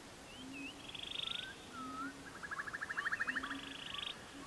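Birdsong in a nature background track: short slurred whistled notes, each run leading into a fast trill, heard twice. Under it, short low notes repeat about once a second.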